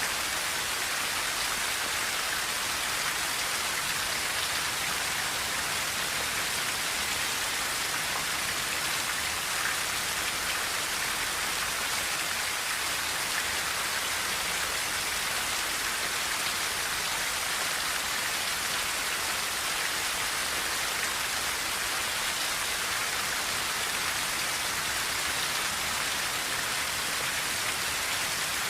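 Steady rain on a tin roof: a dense, even hiss of drops with no let-up.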